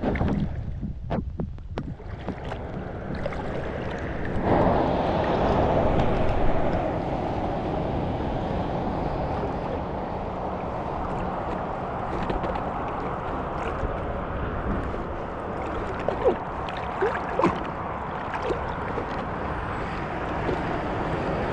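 Wind rushing over the microphone and water gurgling around a small pontoon boat, with a few sharp knocks in the first couple of seconds and a few brief squeaks later on.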